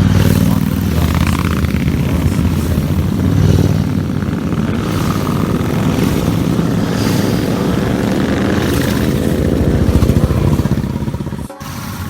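Motorcycle engines running, many at once, a loud steady mass of engine noise. The sound cuts out for an instant near the end.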